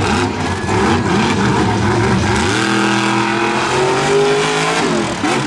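Monster truck engine at full throttle, its pitch rising and falling at first. From about two and a half seconds in it is held at high revs with a slowly climbing pitch, then drops off near the end.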